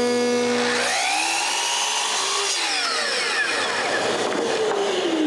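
A woodworking power tool runs steadily, cutting into a wood board, with sweeping shifts in pitch as it works.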